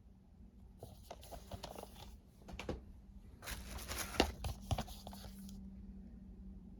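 Plastic packaging and disc cases being handled: two bursts of crinkling and rustling with sharp clicks, the second longer and louder.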